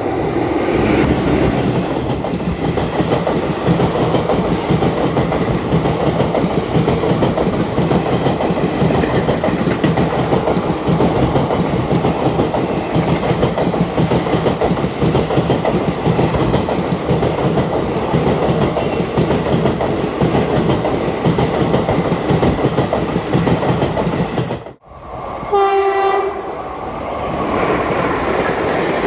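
Express train running at high speed, about 110 km/h, with a steady rush of wheel-on-rail noise and rapid clickety-clack. About 25 seconds in, the sound drops out abruptly, and a train horn sounds for about a second before the rolling noise returns.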